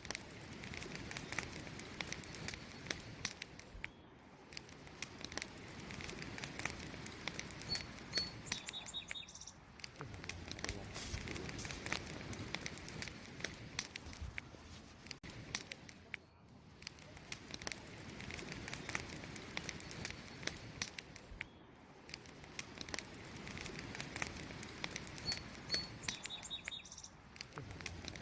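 Wood campfire crackling, with a steady hiss of flame and many quick sharp pops. Short bird chirps come in twice, about 8 seconds in and again near the end.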